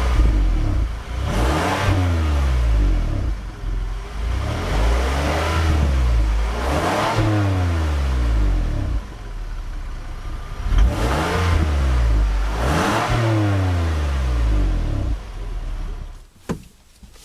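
2012 Kia Sorento SX's V6 being revved in neutral through its exhaust: about five blips, each rising in pitch and falling back to idle, with a low, smooth tone. The sound fades out near the end, and there is a single click.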